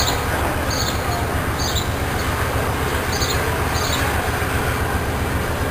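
VIA Rail passenger train rolling slowly past at close range: a steady low rumble of the cars, with short high-pitched wheel squeaks at irregular intervals.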